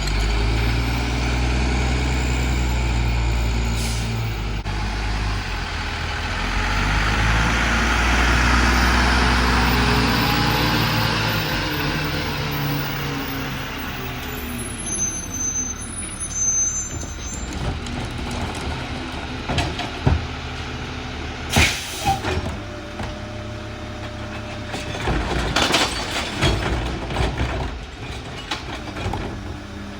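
Freightliner garbage truck's diesel engine running with a deep growl, revving up and easing back down over several seconds near the start. It then settles to a lower, quieter run, with scattered knocks and clanks and a short sharp hiss in the second half.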